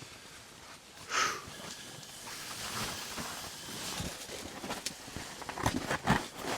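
Rustling and scraping of gear being handled, as fabric and cord are worked at by cold hands, with a few short knocks.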